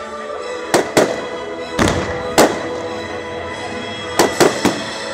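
Aerial fireworks exploding overhead: seven sharp bangs in quick clusters, two, then two, then three, with music playing steadily underneath.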